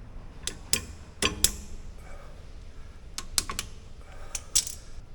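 Irregular sharp metal clicks and taps as a brake pad and its retaining pin are worked into a rear disc brake caliper. They come in two clusters, the first about half a second to a second and a half in and the second from about three seconds to four and a half.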